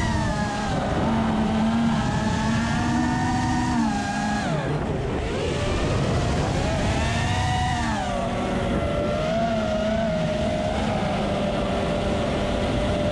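FPV quadcopter's motors whining, the pitch rising and falling with the throttle: steady at first, dropping sharply about four seconds in and climbing back a couple of seconds later, with a constant rush of wind and propeller noise.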